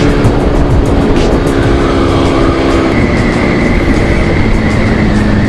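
Honda CBR600RR inline-four engine running at a steady cruise under heavy wind rush on the mic. Its note drops about three seconds in.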